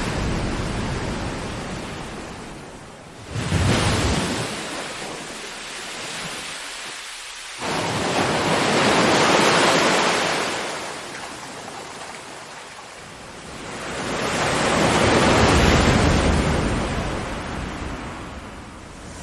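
Ocean waves rolling in and washing back in slow swells every few seconds, two of them arriving abruptly about three and a half and seven and a half seconds in.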